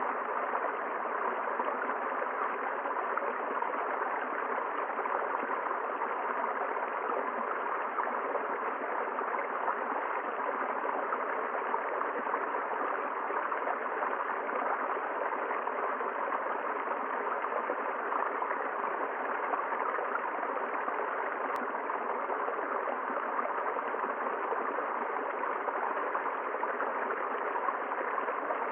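River water flowing steadily over rocks, a continuous even rush of running water.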